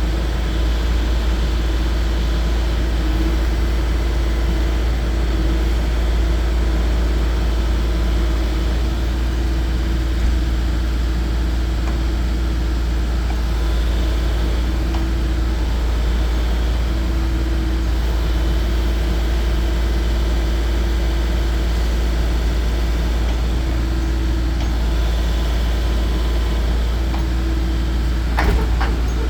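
Kubota U50-5 mini excavator's diesel engine running steadily, with a short knock about a second before the end.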